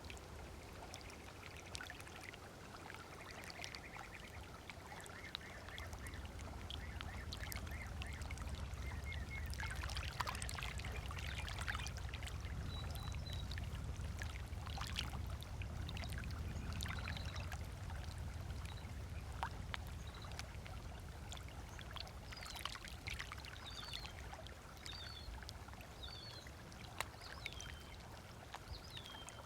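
Small waves lapping on a sandy shore, with many light splashes, while birds call: a rapid trill in the first several seconds and short high chirps later. A low rumble builds a few seconds in and eases off in the second half.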